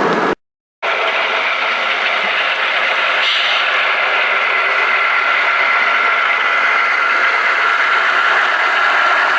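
Model train running on the layout: a steady whir of its motor and gearing with wheel noise on the track. The sound cuts out completely for about half a second near the start.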